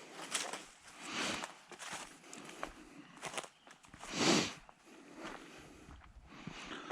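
A hiker walking a woodland trail, with footsteps and hard, out-of-breath breathing coming in noisy bursts about once a second. The loudest burst comes about four seconds in.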